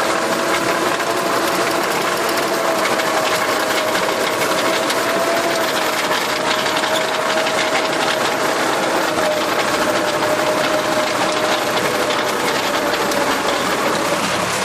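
Tractor engine running steadily while driving a rotary tiller, with a steady whine running through the mechanical noise.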